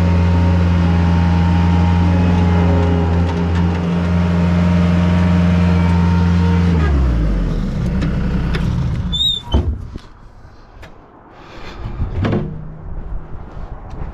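Engine idling steadily, then shut off about seven seconds in, its note sinking as it winds down. A short, sharp high chirp follows about two seconds later, then a couple of brief rustling noises.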